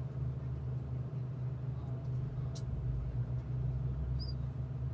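Diesel passenger train running along the line, heard from inside the carriage: a steady low engine hum and rolling rumble, with one sharp click about two and a half seconds in and a brief high squeak near the end.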